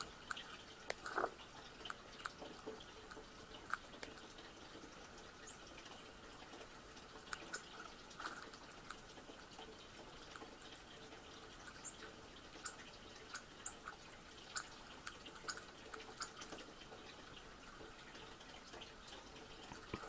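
Faint, irregular short chirps and ticks of small birds at a seed feeder, played through a laptop speaker, over a low hiss.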